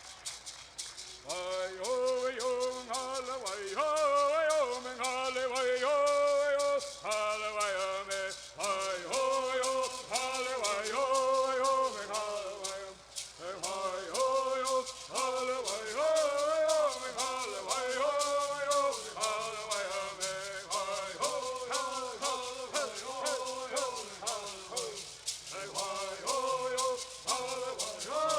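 Southern California bird singing: a group of men singing in unison to a steady, fast shaking of gourd rattles. The rattles sound alone at first, and the voices join about a second in.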